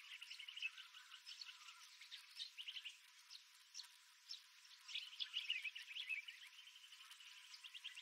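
Several birds calling at once: quick chirps and short rapid trills overlapping, thinning out around the middle and busiest a little after.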